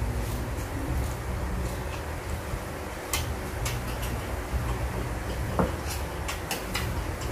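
Close eating sounds of a person chewing a mouthful of fresh herbs with rice, with scattered sharp clicks that bunch together about halfway through and again near the end, over a steady low background rumble.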